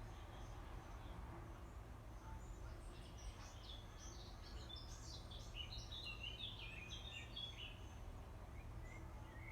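Songbirds chirping in a quick run of short high notes from about three seconds in until near the end, over a faint steady low outdoor rumble.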